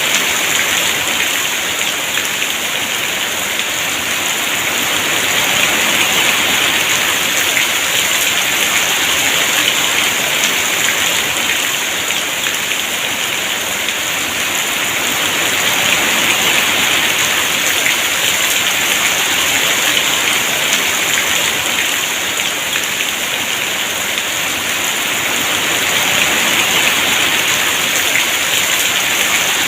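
Heavy rain falling steadily in a dense hiss, swelling and easing slightly every several seconds as gusts of wind drive it.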